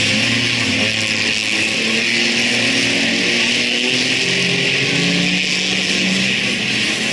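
Speedway race cars running on the track, their engines' pitch drifting up and down slowly as they lap.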